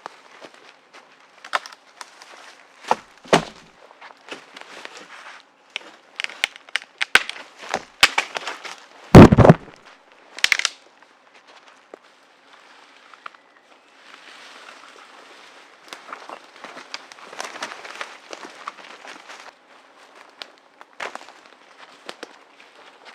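Dry sticks and twigs being handled and snapped, with scattered sharp cracks, a heavy thump about nine seconds in, and softer rustling in the second half.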